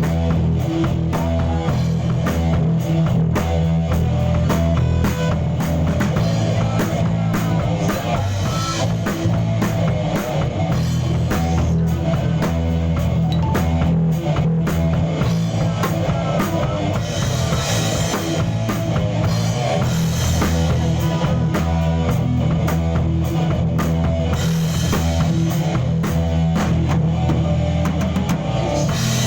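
Live rock band playing: drum kit keeping a steady beat under electric guitar and bass.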